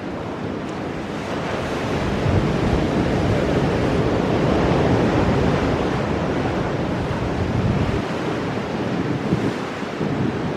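Ocean surf breaking on rocks: a continuous wash of waves that swells louder about two seconds in and eases slightly near the end.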